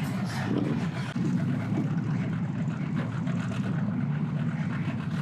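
A motor engine running steadily at low revs, a low continuous hum.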